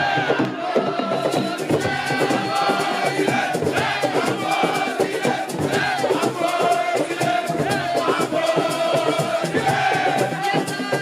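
A crowd singing and chanting together over music with steady percussion and rattles.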